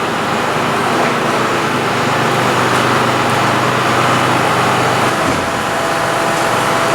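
Heavy diesel farm machinery running loudly and steadily. A higher steady whine joins the engine hum about five seconds in.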